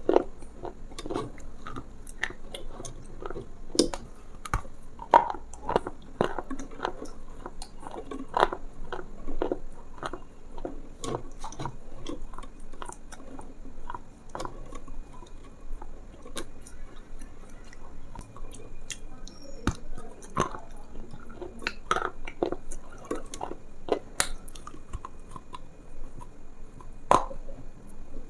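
Close-miked eating sounds: chewing and biting, with many irregular crackly clicks.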